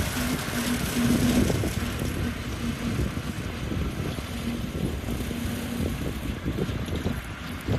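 Swing-blade lawn mower running, a steady engine noise with a rushing hiss that eases a little after the first couple of seconds.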